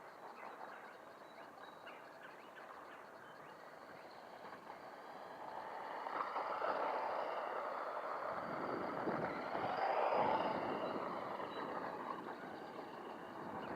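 Redcat Volcano 1/18-scale electric RC truck driving, its motor and gears whining over the sound of its tyres on rough blacktop and gravel. It gets louder from about six seconds in, is loudest near ten seconds, then fades somewhat.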